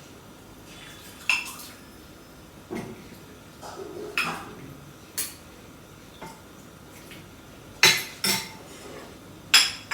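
A spoon clinking against a bowl of pepper water, about seven sharp, irregular clinks, the loudest near the end.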